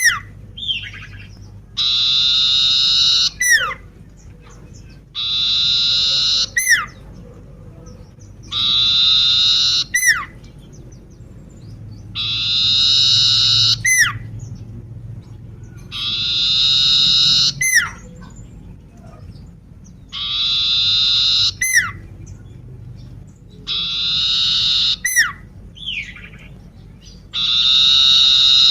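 Common iora (cipoh) calling over and over, eight times at even intervals of about three and a half seconds. Each call is a harsh buzzy note about a second long, followed at once by a sharp whistle sweeping down in pitch.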